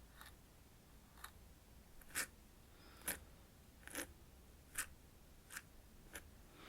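A series of soft, crisp clicks, about one a second, eight in all.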